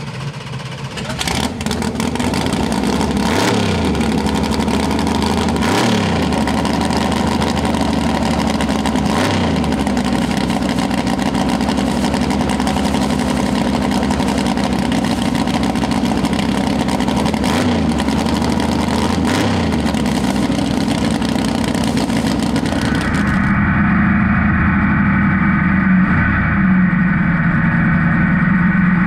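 1988 Mustang drag car's engine running loud at a steady fast idle, its speed dipping briefly several times. Near the end the sound turns duller and steadier, the same engine heard from inside the cockpit.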